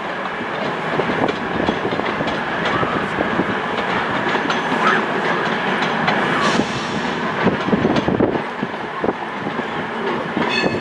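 CrossCountry Voyager diesel train moving slowly through the station pointwork, its wheels clattering irregularly over rail joints and points under a steady rush of noise.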